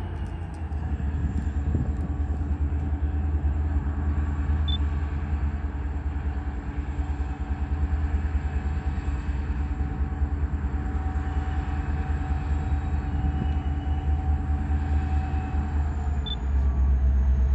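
Diesel-hauled freight train running with a steady low rumble and held engine tones, getting louder near the end.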